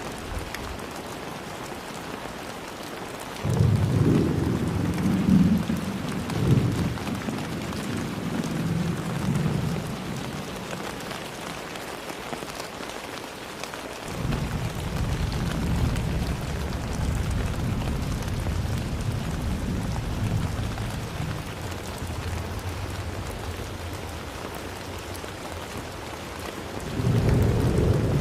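Steady heavy rain falling, with rolls of thunder rumbling over it. One loud roll comes in suddenly a few seconds in and dies away, a longer one rolls through the middle, and another starts near the end.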